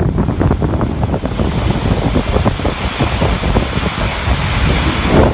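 Loud wind buffeting the microphone, a steady rushing noise with heavy low gusting throughout.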